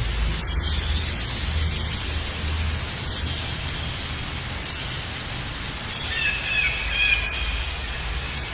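Steady hiss of outdoor ambience over a low rumble, with a few short bird chirps and a longer warbling bird call about six seconds in.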